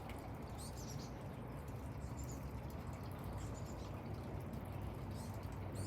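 Outdoor ambience with a steady low hum and a few faint, short, high chirps from small songbirds.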